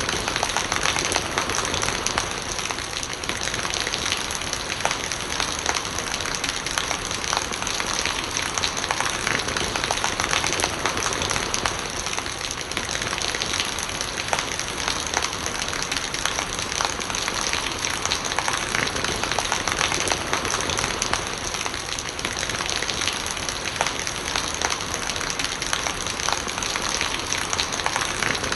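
Steady rain falling, with a dense patter of individual drops striking nearby surfaces.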